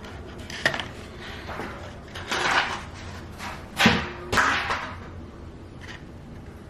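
Takeout food containers being handled on a table: a few light clicks and scrapes, with a sharp knock about four seconds in.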